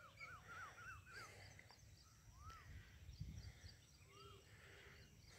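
Near silence with faint bird calls: a quick run of short rising-and-falling notes at the start, then single slower ones about every two seconds, with fainter high chirps behind.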